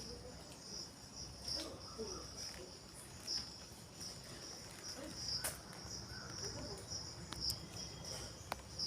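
Crickets chirping, a faint, steady, pulsing high-pitched trill over a low background hum.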